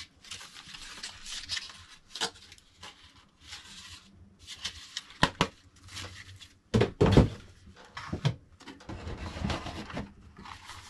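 Handling noises from unpacking a 3D printer: packaging rustling and scraping in short bursts, two sharp clicks a little after five seconds in, and a heavy thump about seven seconds in.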